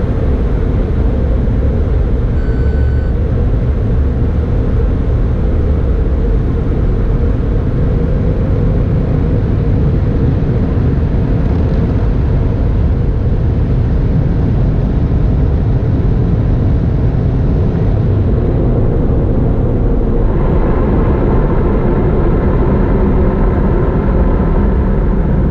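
Car wash dryer blowers blasting air over the car with a steady, loud rush and low rumble. A stronger, higher-pitched rush joins about twenty seconds in.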